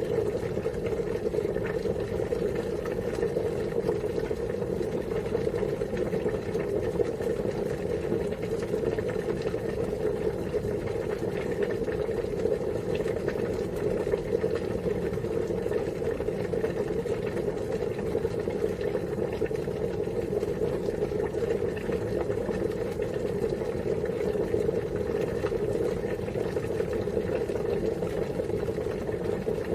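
Water boiling steadily, a constant bubbling noise.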